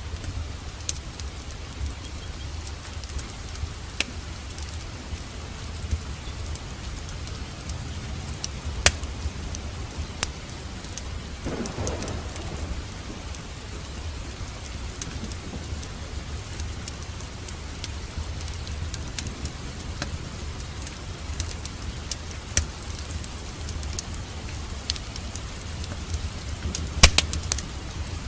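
Steady rain with a low rumble underneath and scattered sharp crackles, the loudest cluster coming near the end.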